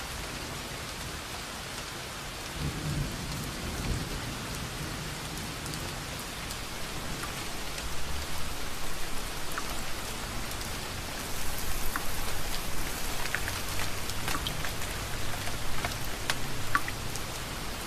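Steady rain falling, with a low rumble of thunder about three seconds in. From about eleven seconds the rain grows louder, with many sharp individual drips striking a surface.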